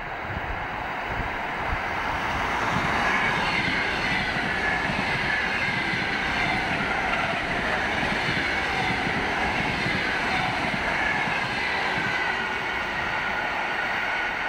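Electric commuter train passing close by: a steady rush and rumble of wheels on rails that swells over the first couple of seconds, with a high whine that slowly falls in pitch as the train draws away.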